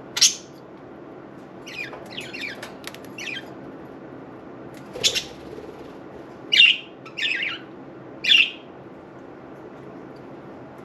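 Budgerigars giving sharp chirps and squawks: one just after the start, a quick run of chirps about two seconds in, then several single loud calls, over a steady low hiss.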